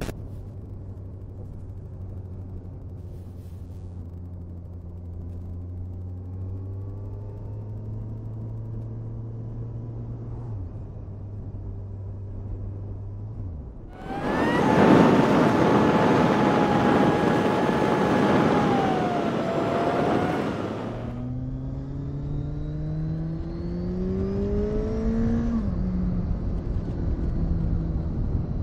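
Kawasaki Z1000SX inline-four engine running while riding, a steady hum that creeps up in pitch. About halfway, with the recorder in a jacket side pocket, a loud rushing noise swamps it for several seconds. Then the engine climbs in pitch as it accelerates and drops suddenly near the end at a gear change.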